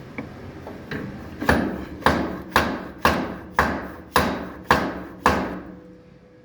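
Hammer striking a freshly welded steel chassis brace on a trophy truck, about nine sharp blows at roughly two a second, each ringing briefly: the new weld is being beaten to test whether it holds.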